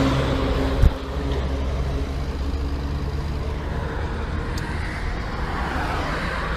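Car engine and road noise running steadily, with a single sharp thump about a second in.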